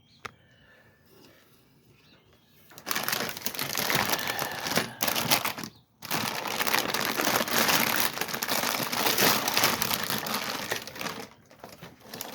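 Packaging crinkling and rustling as new parts are handled and unwrapped, in two long stretches with a short pause between, after a single click just at the start.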